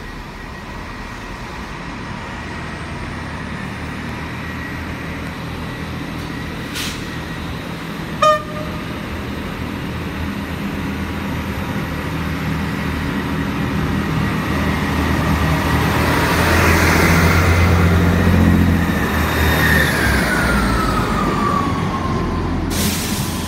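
Class 158 diesel multiple unit running into the platform, its diesel engine hum building to a peak about two-thirds of the way through. A short, loud toot sounds about a third of the way in, and near the end a whine falls in pitch as the train slows.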